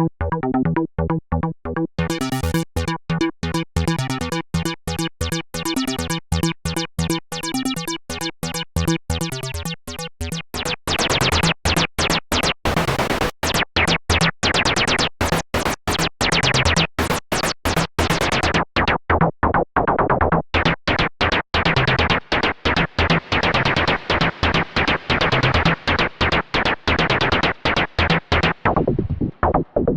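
Synthesizer playing a fast, evenly pulsing sequence of short notes, a few per second. About ten seconds in the tone turns brighter and noisier, and near the end the upper range closes off as if a filter is being swept down.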